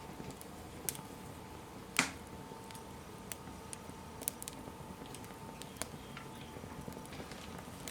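Small fire crackling, with scattered sharp pops and one louder pop about two seconds in.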